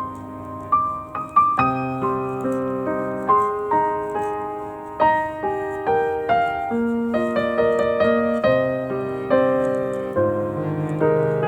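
Gentle background piano music, single notes and chords struck one after another and left to fade.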